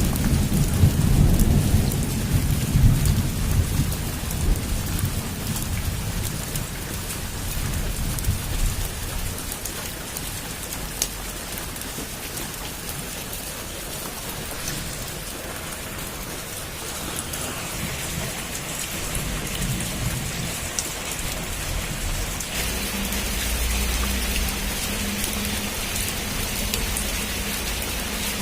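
Heavy rain falling on a rooftop in a steady hiss. A low roll of thunder fades out over the first several seconds. Near the end the rain grows louder and heavier.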